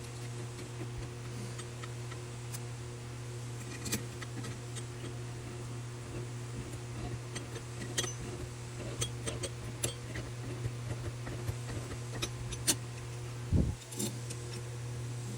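Scattered light clicks and taps, like tools and small metal parts being handled, over a steady low hum. A few louder knocks come near the end.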